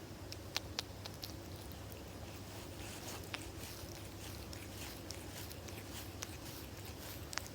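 A kitten purring close to the microphone, a steady low rumble, with a few small sharp clicks scattered through it.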